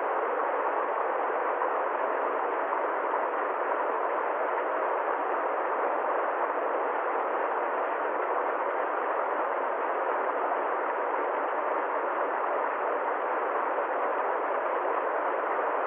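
Steady, unchanging hiss-like noise with no rhythm, tone or separate events, thin in bass and treble.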